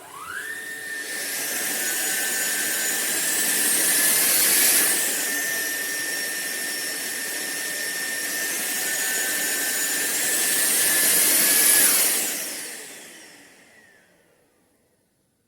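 SunSare cordless stick vacuum switched on, its motor whining up to speed within about a second and then running with a steady airflow rush. The high whine rises in pitch twice, a few seconds in and again near the end, before the vacuum is switched off about twelve seconds in and the motor winds down.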